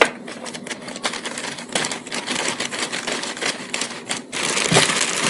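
Spin-on oil filter being screwed onto a Harley-Davidson Sportster by hand: a run of irregular small clicks and scraping rubs, with a denser rustling stretch near the end.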